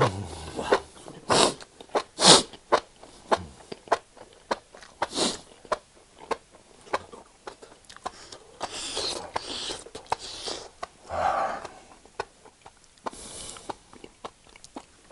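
Close-miked chewing of enoki mushrooms in a very spicy chili broth: many small wet mouth clicks with several short, sharp breaths and sniffs between them, the breathing of someone feeling the chili's heat.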